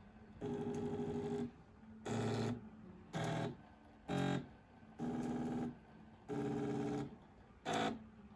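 Stepper motor driven by an Arduino Uno running in seven short bursts of buzzing whine, each holding a steady pitch, with brief pauses between, as it is started and stopped in an acceleration test.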